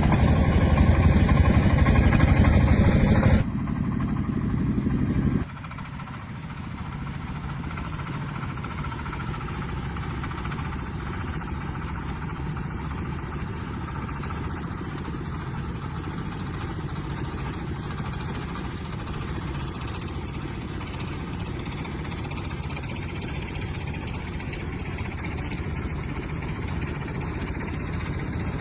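An engine running steadily, loud at first, then dropping abruptly to a quieter level about three and a half seconds in and again about five and a half seconds in.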